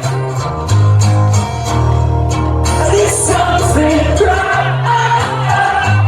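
Live rock band playing loud, with distorted guitars, bass, drums and cymbals, and a singer's voice coming in for a short line partway through.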